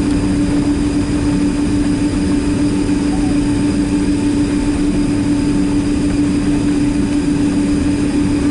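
Boeing 767-300ER jet engines and airflow heard from inside the passenger cabin: a loud, steady drone with a constant low hum.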